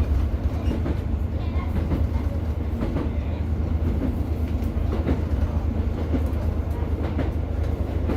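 Class 150 diesel multiple unit running along the line, heard from inside the carriage: a steady low rumble from the engine and running gear, with scattered clicks from the wheels on the track.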